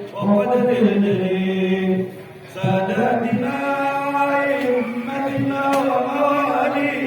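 Voices chanting Islamic shalawat in long, drawn-out melodic phrases, with a short break about two seconds in.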